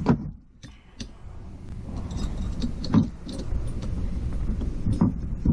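Metal clinks and handling noise as a valve spring compressor is worked onto a motorcycle cylinder head, with a few sharp metallic clicks about 1, 3 and 5 seconds in.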